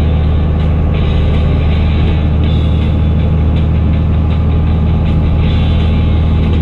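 Fendt Favorit 926 Vario tractor's six-cylinder diesel running at a steady pitch through an open exhaust pipe.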